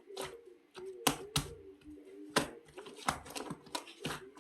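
Irregular sharp clicks and taps, a few a second and of uneven strength, over a faint wavering low tone.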